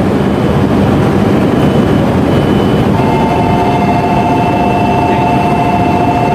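A train running, with a loud steady rumble and rush of noise. About three seconds in, a steady high whine joins and holds.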